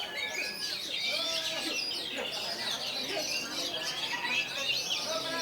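Several oriental magpie-robins (kacer) singing at once in a songbird contest, a dense overlapping mix of quick whistles, chirps and trills.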